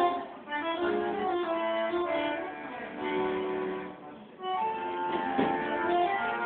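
Bandoneon playing held notes and chords, with a brief pause about four seconds in before the melody resumes.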